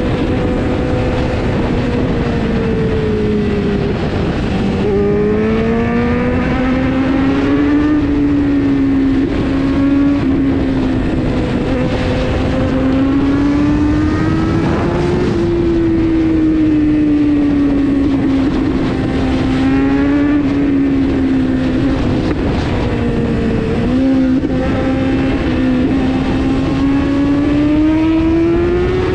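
Kawasaki Z900 inline-four engine under way on a ride, its note climbing and easing with the throttle and dropping sharply at gear changes about five seconds in and again near the end.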